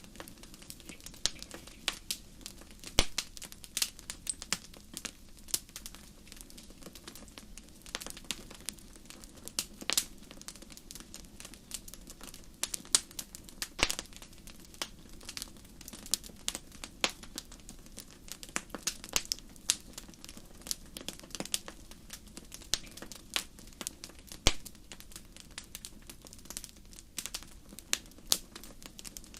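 Wood campfire crackling: irregular sharp pops and snaps, several a second, over a low steady rush from the burning fire.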